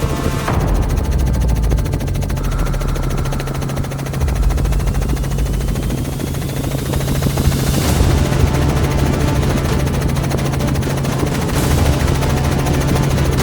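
Helicopter flying close, its rotor chopping in a fast, steady pulse over a low drone, with a faint rising whine in the middle.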